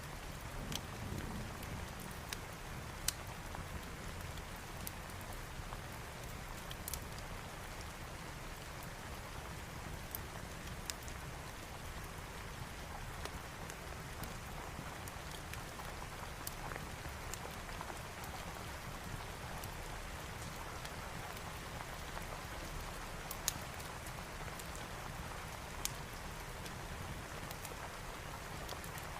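Steady rain mixed with a wood fire: an even hiss over a low rumble, with a few sharp, isolated crackling pops scattered through.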